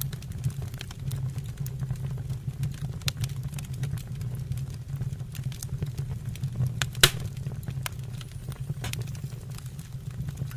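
Wood fire burning in a stove or fireplace: a steady low rumble of flame with scattered sharp crackles and one loud pop about seven seconds in.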